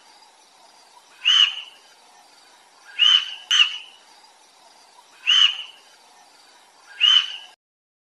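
A short, high animal call repeated five times, about every two seconds, with two calls coming close together near the middle, over faint hiss.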